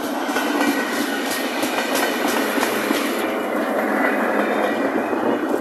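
Vintage electric multiple-unit train passing close by. Its wheels rumble on the rails and clack over the rail joints in a quick rhythm during the first three seconds, then the sound evens out into a steady roll.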